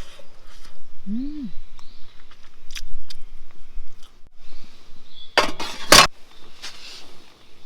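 A few light clicks and knocks, then a loud short rustling scrape lasting under a second, about five and a half seconds in: handling noise.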